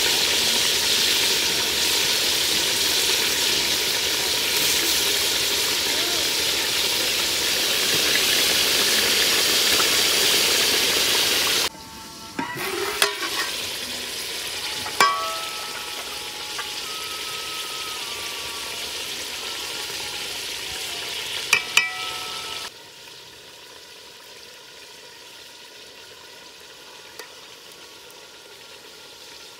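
Chicken pieces frying in ghee in an aluminium pot over a wood fire, sizzling loudly for about the first twelve seconds. After that the sizzling is quieter, with a few sharp clinks of metal against the pot, and it settles to a soft, steady simmer for the last several seconds.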